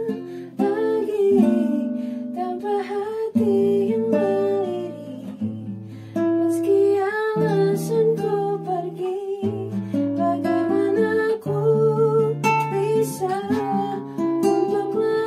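Acoustic guitar played in a song, with a voice singing a melody over it.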